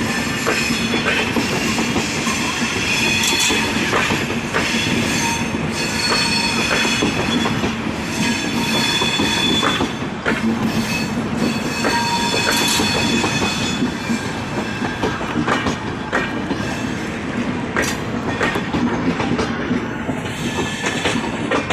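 Passenger express train pulling out of the station. Its coach wheels click over rail joints and squeal with a high ringing tone against the rails.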